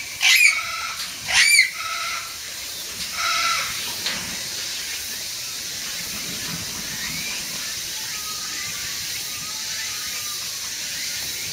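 Loud pitched bird calls, two in the first two seconds and a couple of fainter ones by about three and a half seconds in, then a steady hiss of background noise.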